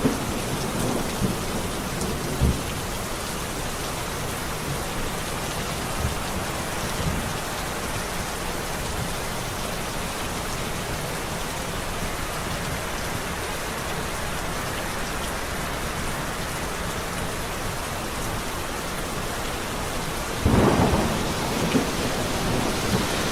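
Steady rain falling in a thunderstorm, with crackles of thunder in the first few seconds and a louder clap of thunder rolling in near the end.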